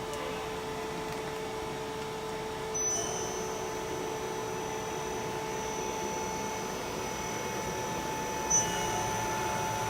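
Daewoo Puma 8S CNC turning center running with a steady hum. A high whine comes in about three seconds in, and there is a short click near the end.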